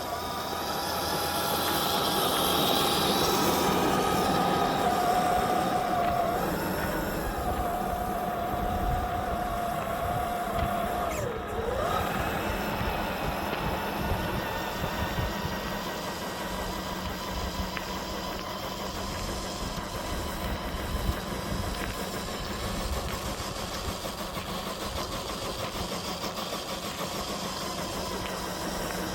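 FMS FJ40 RC crawler's electric motor and gears whining steadily as it drives. The pitch dips briefly as the throttle changes, once slightly about six seconds in and sharply about eleven seconds in, over a steady low rumble.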